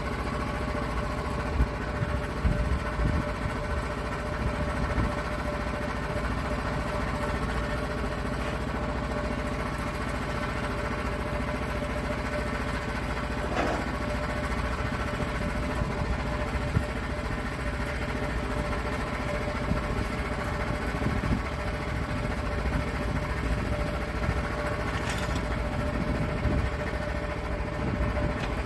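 Sawmill engine running steadily at a constant speed, with a few short knocks along the way.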